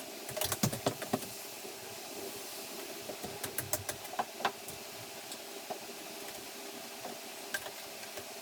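Light knocks and clicks of wooden framing pieces being handled and fitted, in scattered clusters over a steady low hum.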